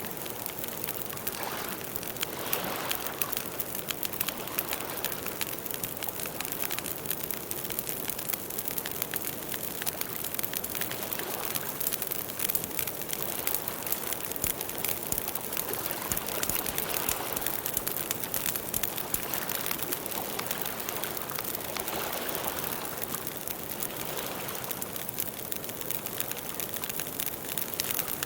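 Campfire burning, with dense, irregular crackling and small pops throughout over a soft rushing of the flames.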